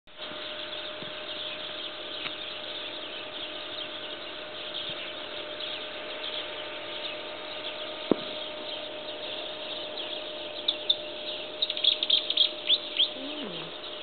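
Small birds chirping in a dense, continuous chorus of high calls, with a louder run of quick, sharp chirps near the end.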